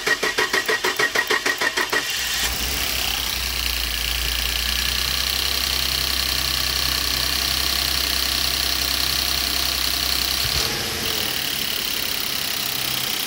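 Ford 3.5 EcoBoost twin-turbo V6 cranked over by the starter for about two seconds, then catching and running at a steady idle, with its deep rumble dropping away about ten seconds in. This is the first start after a high-pressure fuel pump replacement, with the high-pressure side still empty of fuel, run to check the new pump's lines for leaks.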